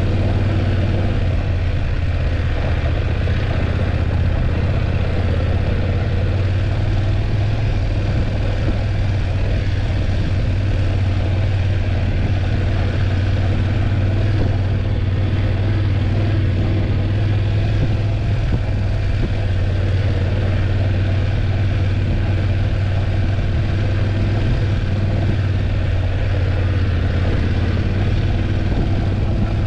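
BMW F850GS motorcycle's parallel-twin engine running at a steady, unchanging pitch, with no revving.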